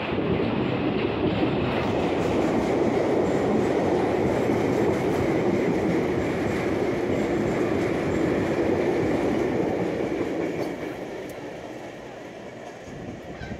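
Long freight train of covered wagons rolling past on jointed track: a steady rumble with wheel clatter, which fades near the end as the last wagons move away.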